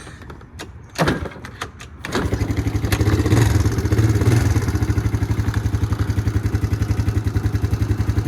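Can-Am DS90 quad's small single-cylinder engine cold-started on choke: a few clicks and a thud about a second in, then it catches about two seconds in and settles into a fast, even high idle, swelling slightly a second or so after it fires.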